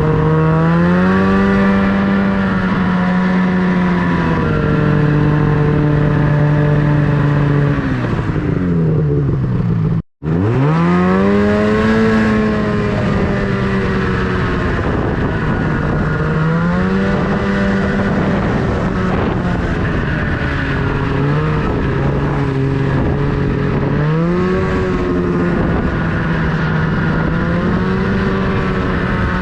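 Snowmobile engine running under a rider, its pitch rising and falling repeatedly with the throttle. About a third of the way in, the sound drops away briefly and then climbs back.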